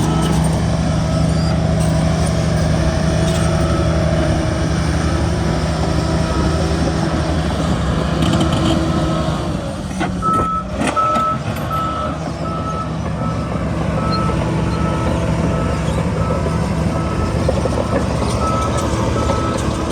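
Heavy diesel earthmoving machine running steadily under load while its backup alarm sounds a steady run of evenly spaced short beeps, the machine reversing.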